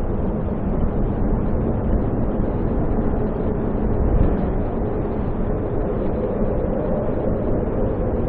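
Snowstorm wind blowing steadily, a deep continuous rushing noise with no breaks.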